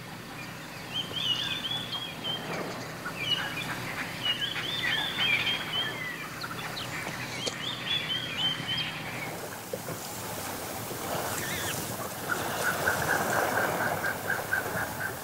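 Wild birds calling: bursts of short chirping calls through the first part, then after about twelve seconds a quick, even run of notes, about four or five a second.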